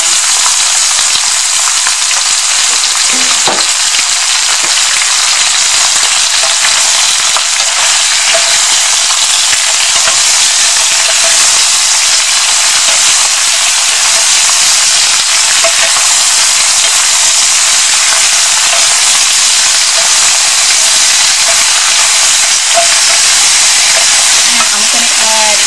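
Chicken bones frying in hot oil with garlic and dried chili: a loud, steady sizzle.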